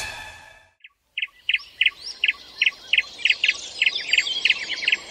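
Birds chirping: a quick run of sharp, repeated chirps, about three a second, with higher twittering around them. At the start a loud rushing sound fades away.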